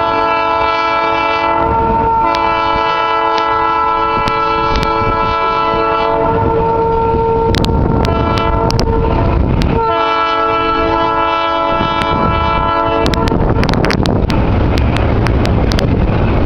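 Train horn sounding two long blasts, several notes together: the first about ten seconds, the second about three. After the horn stops, the train rolls on with a low rumble and scattered sharp clicks.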